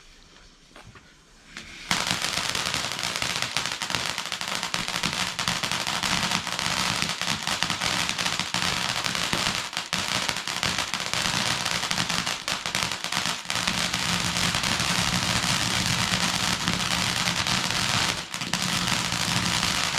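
Firework crackling densely and continuously, starting suddenly about two seconds in.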